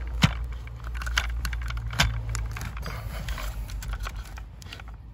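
Light clicks, taps and rattles of hands handling car wiring and parts, with sharper clicks about a quarter second in and at about two seconds, over a steady low hum.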